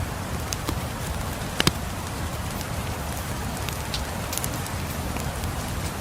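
Steady rain with a crackling wood fire: an even hiss and low rumble, broken by sharp pops of the fire, the loudest a quick double pop about a second and a half in.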